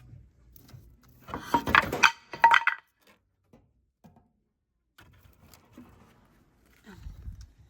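A burst of clinking and rattling from hard objects being handled, starting about a second in and lasting about a second and a half, followed by a few faint knocks.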